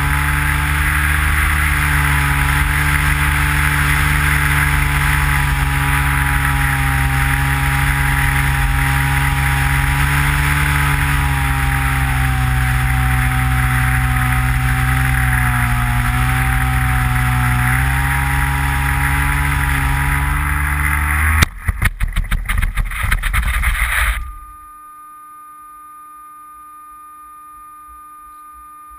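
Skywalker RC plane's electric motor and propeller running steadily, with wind rush on the onboard camera; the pitch drifts slowly. About three-quarters of the way through, the sound turns into a few seconds of rough, uneven thumping, then cuts off, leaving a quieter steady electronic hum.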